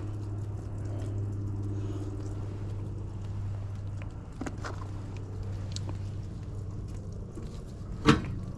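Steady electrical hum from the furnace's control relay or transformer, with a few light metallic clicks of tools at the flame sensor and one sharp knock near the end.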